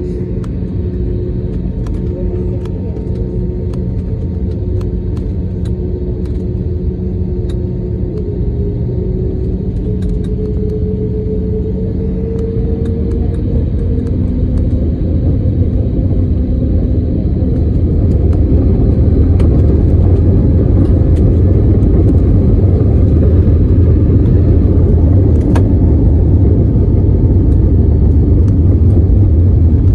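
Jet airliner engines spooling up for takeoff: a steady engine hum whose tones rise in pitch, under a low rumble that grows louder a little past halfway as the aircraft accelerates down the runway.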